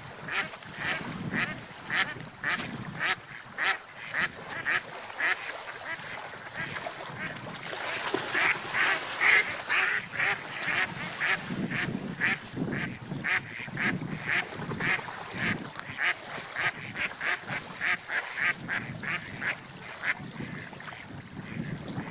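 Domestic ducks quacking: short calls repeated several times a second, with a busier, louder stretch near the middle.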